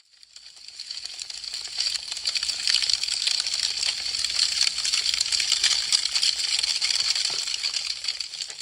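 Wood fire crackling: a dense run of sharp snaps and pops from burning branches. It fades in over the first second or two and begins to fade out near the end.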